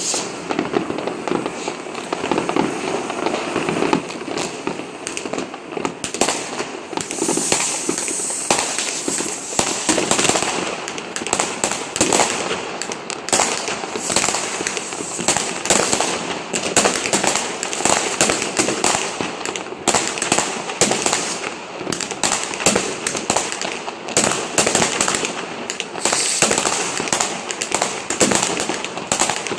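Dense New Year's fireworks and firecrackers: many bangs and crackles overlapping without a break.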